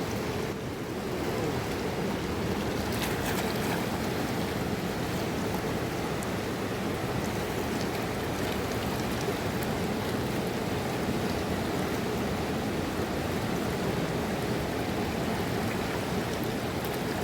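Rushing mountain river water, a steady even roar of flowing current.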